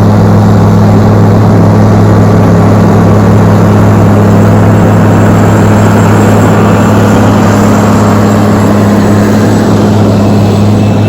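John Deere 9400 four-wheel-drive tractor's diesel engine running under load, a loud, steady drone while it pulls a dirt pan.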